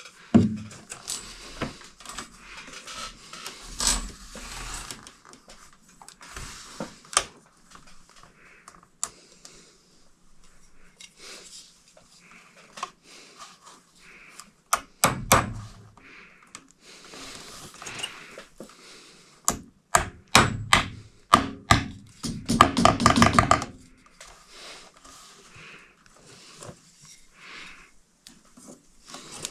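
Scattered clicks, taps and knocks of hand tools and metal hardware being worked during a ceiling fan installation. A fast run of clicks comes about twenty seconds in, followed soon after by a dense rattling burst lasting about a second and a half.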